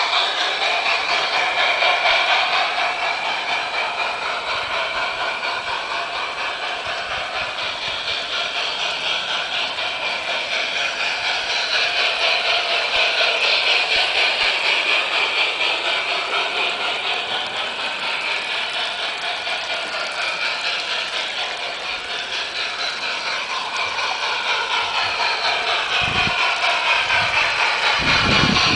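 Garden-scale model train running on its track: rapid fine clicking of wheels on rail with the whirr of its motor and gears, growing louder and fainter in turn.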